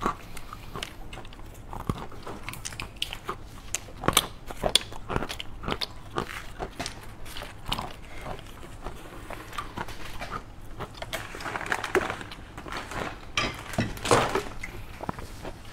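A person chewing roasted macadamia nuts, with many irregular sharp crunches.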